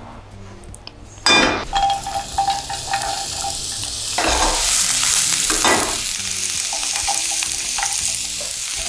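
Diced onion and zucchini sizzling in hot oil in a non-stick frying pan. The sizzle starts suddenly about a second in, as the food hits the oil, and grows louder about four seconds in.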